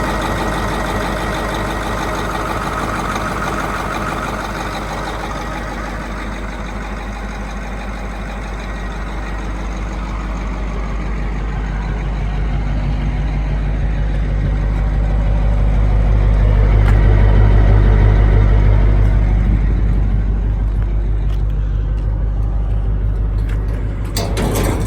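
Caterpillar 3208 V8 diesel in a Kodiak truck running steadily. Roughly halfway through it gets louder and deeper, then eases back down. A few sharp knocks come near the end.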